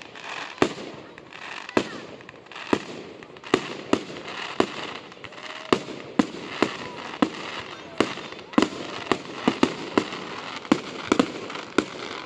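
Fireworks going off in a steady series of sharp bangs, about one to two a second and quickening in the second half, over a continuous hiss and crackle.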